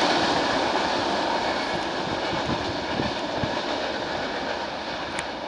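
Train running along the track, a steady rail rumble with faint clicks that fades gradually as the train moves away.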